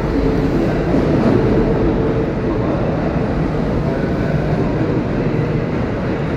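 Red Kintetsu 80000 series Hinotori limited-express train pulling away from the platform, giving a steady rumble of wheels on rail. A steady hum that runs under the rumble fades about two seconds in as the train draws off into the tunnel.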